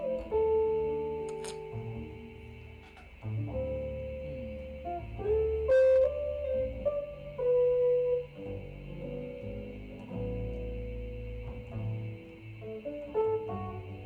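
Jazz music playing from a stereo system's loudspeakers and recorded live in the room: a sequence of clear melodic notes over a low bass line.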